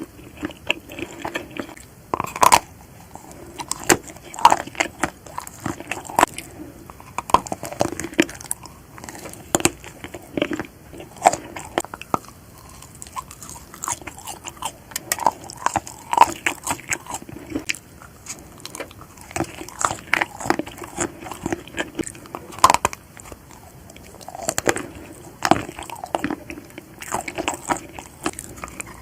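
Close-miked biting and chewing of chocolate-coated marshmallows: the chocolate shell cracks and crunches in sharp, irregular clicks, with soft chewing sounds in between.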